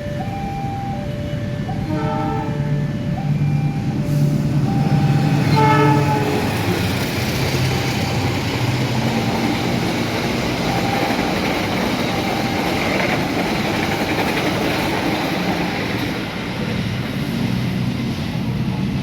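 A train passing through the station. Its horn sounds in the first six seconds, strongest about six seconds in, then a steady rumble of wheels on rails continues.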